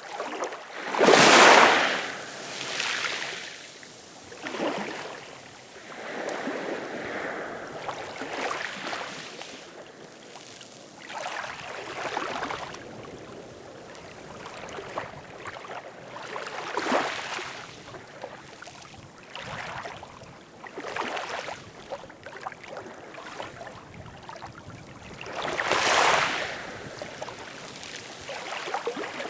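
Ocean waves breaking and washing on a shore, surging every few seconds, with one large wave crashing about a second in and another near the end.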